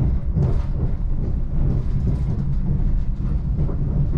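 Steady low rumble of a Class 745 Stadler FLIRT electric train in motion, heard from inside its passenger saloon: wheels running on the rails and the car body humming.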